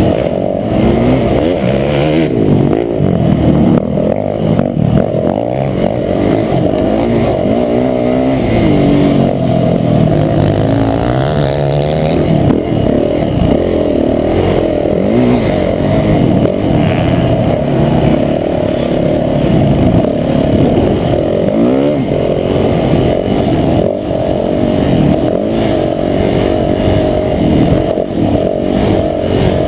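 Motocross bike engine revving hard and dropping back over and over, its pitch rising and falling as it accelerates and shifts through the gears around a track.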